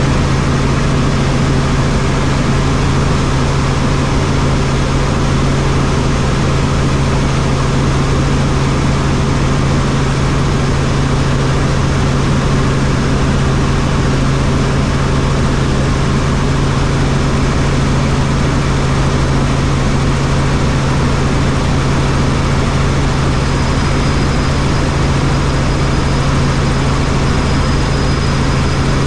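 Helicopter in flight: steady rotor and turbine engine noise with a strong, even low hum. A faint high tone joins in near the end.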